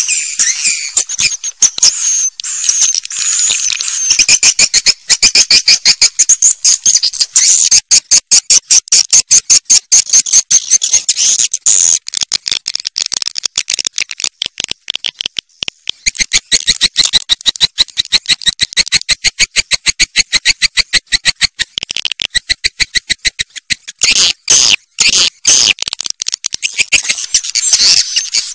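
Swiftlet calls played as a swiftlet-house lure: a loud, fast, unbroken run of sharp, high chirps, breaking up briefly a few times near the end.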